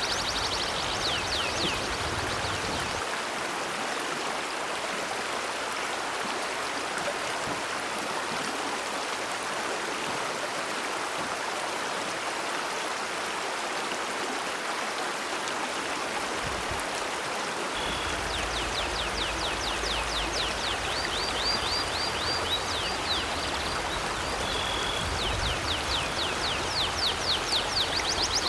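River water flowing with a steady rushing sound. Quick, high, repeated bird chirps sound briefly at the start and come back about two-thirds of the way through, continuing to the end.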